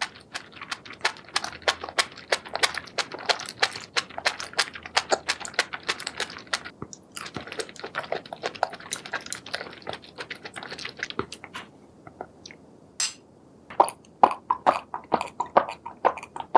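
Close-miked chewing of seafood: a dense run of wet crackling and smacking mouth sounds, with a brief lull about twelve seconds in before louder, sharper bites resume.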